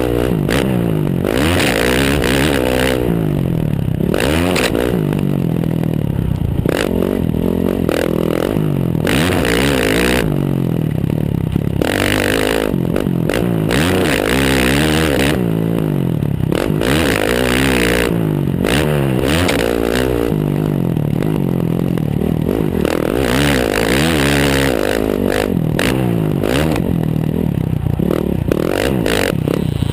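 Motocross bike engine revving up and falling back again and again as the throttle is opened and closed, heard from close by on the rear fender, with a steady scraping, rattling noise underneath.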